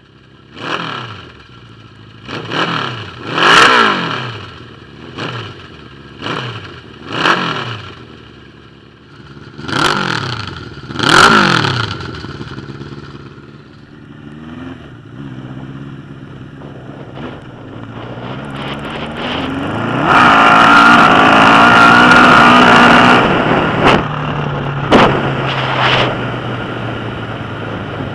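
1981 Suzuki GS1000's air-cooled inline-four running through straight pipes, blipped about eight times in quick rises and falls of revs, then held louder and steady for about three seconds before easing back to a lower run.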